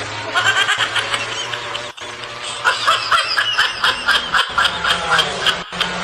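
High-pitched laughter in quick repeated bursts, several a second, over a steady low hum.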